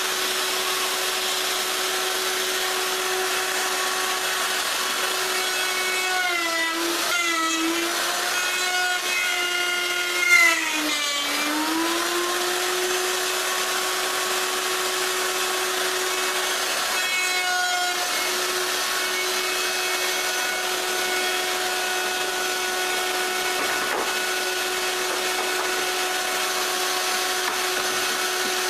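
Handheld router running at a steady high speed. Its pitch sags and recovers a few times, most deeply about ten to twelve seconds in, as the bit bites harder into the wood, with a brief louder cut just after ten seconds.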